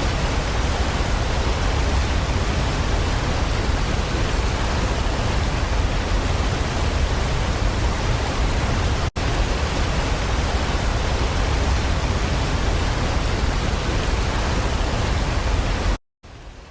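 Seljalandsfoss waterfall's falling water: a steady, even rush with a strong low rumble. It drops out for an instant about nine seconds in and cuts off suddenly shortly before the end.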